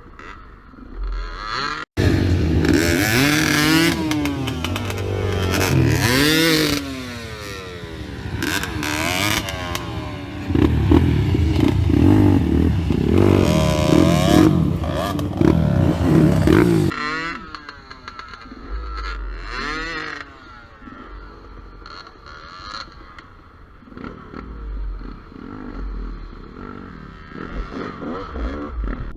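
Gas Gas EC200 two-stroke enduro motorcycle revving hard off-road, its pitch rising and falling again and again. It starts abruptly about two seconds in and drops to quieter, lower running for the last ten seconds or so.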